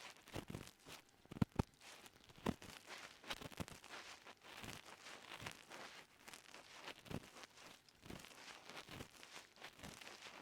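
Ear pick scraping and rubbing deep inside an ear, giving irregular crackling and scratching, with a few sharper clicks in the first few seconds.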